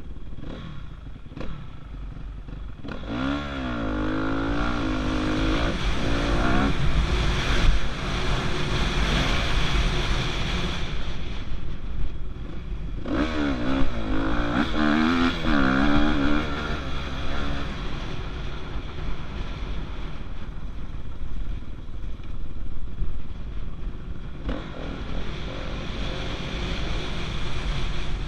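Motocross dirt bike engine riding the track, revving hard with its pitch swinging quickly up and down, once about three seconds in and again about thirteen seconds in, with steadier running in between.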